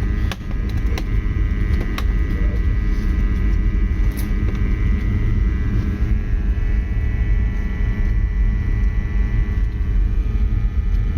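Oil-fired boiler burner running steadily: a deep combustion rumble with a constant higher whine from the burner fan. A few light clicks in the first couple of seconds.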